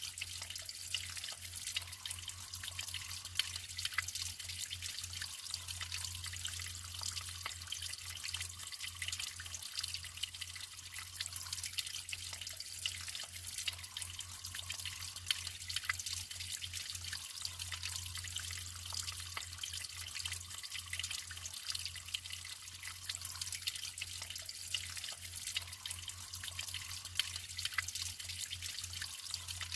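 Natural flowing water trickling and splashing: a steady hiss of running water with many small drips and splashes through it.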